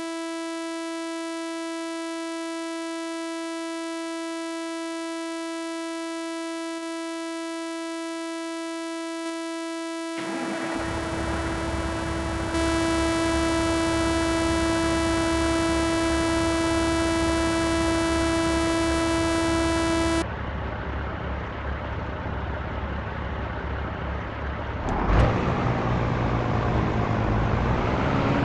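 A steady electronic tone held for about 20 seconds, which gets louder partway through and then cuts off suddenly. About ten seconds in, a truck's engine and road noise come in, a low steady rumble that continues. Near the end there is a sharp loud knock, and then the engine's pitch starts to rise.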